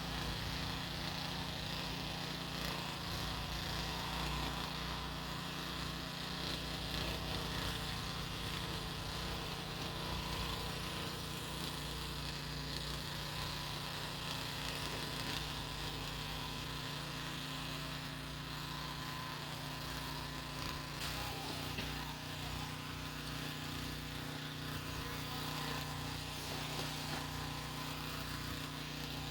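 Small engine of a snow blower running at a steady speed, a constant buzzing drone with no change in pitch.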